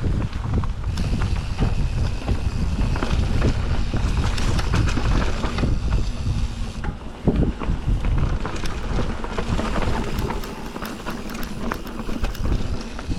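Mountain bike riding down a dirt trail: wind buffeting the microphone over the rolling of the tyres, with frequent short clicks and rattles from the bike over the rough ground.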